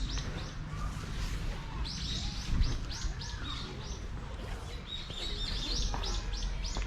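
Small birds chirping in quick runs of short, high calls, several a second, that come and go in three or four bouts, over a steady low rumble.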